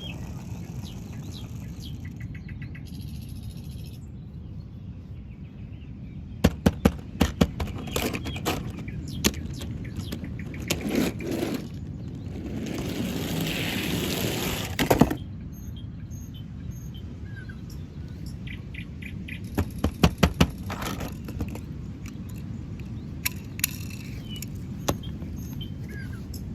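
Two quick clusters of sharp clicks and knocks over a steady low rumble, with a few seconds of hiss in the middle.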